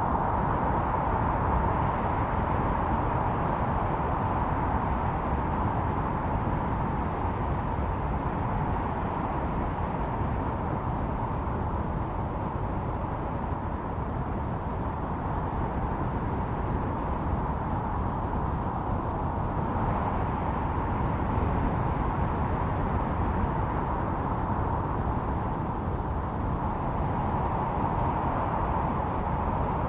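Snowstorm wind blowing steadily, a howling rush with a low rumble underneath, swelling and easing slowly.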